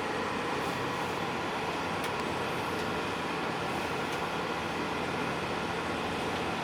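Steady engine and road noise heard inside the cabin of a moving bus.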